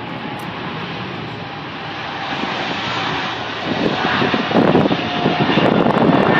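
Boeing 777-300's twin jet engines at climb power just after takeoff: a steady jet noise that grows louder from about four seconds in as the aircraft comes closer.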